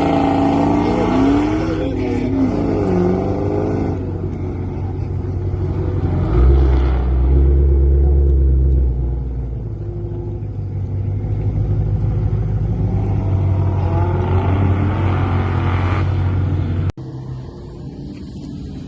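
Car engines revving and running, their pitch rising and falling, in several clips cut together. There is a heavy low rumble about six to nine seconds in, and a sudden cut to a quieter engine near the end.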